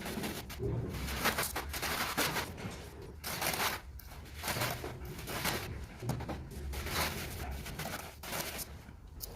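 A trowel scraping and spreading cement mortar in repeated, irregular strokes while the floor base is being screeded to slope.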